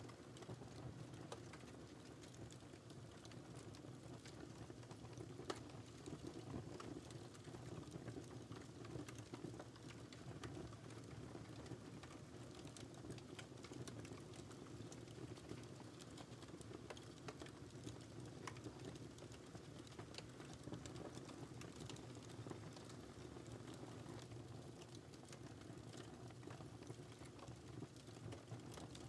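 Wood fire crackling softly: scattered small snaps and pops over a steady low rush of burning, with one sharper pop about five seconds in.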